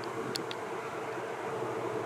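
Steady vehicle noise with a low, even hum, and two faint light ticks about half a second in.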